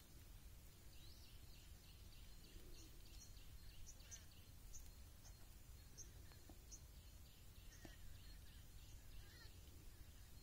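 Near silence: a faint low rumble of outdoor background noise, with small birds' short high chirps repeated faintly through it.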